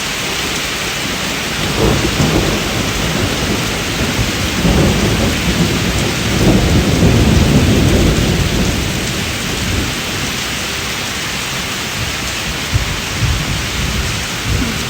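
Steady heavy rain, with a long roll of thunder that builds a couple of seconds in, is loudest around the middle and dies away after about ten seconds.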